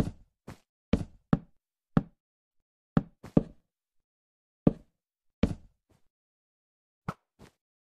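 A series of sharp, irregular knocks, about a dozen over eight seconds, some loud and some faint, with dead silence between them.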